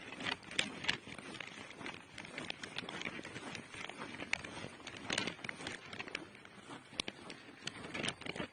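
Footsteps crunching on snow while walking, an irregular series of sharp scuffs and crunches.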